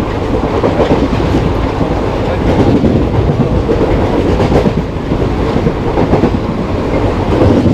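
Passenger coach of an express train running along the track, a loud steady rumble with the clickety-clack of wheels over the rails.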